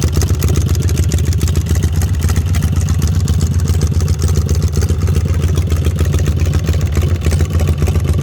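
Custom chopper motorcycle engine running steadily at idle, with a rapid even pulse of exhaust beats.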